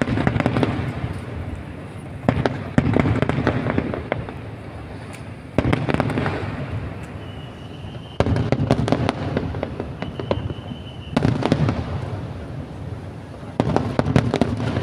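Aerial fireworks bursting about every two to three seconds. Each burst is a low bang followed by dense crackling, and faint whistles can be heard between some of the bursts.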